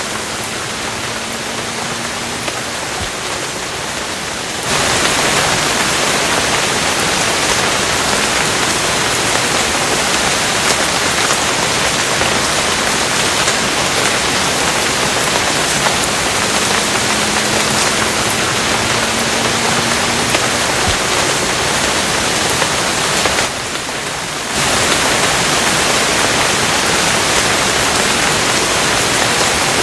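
Steady rain: an even, continuous hiss of falling drops. It gets louder about four and a half seconds in, dips briefly about two thirds of the way through, then comes back.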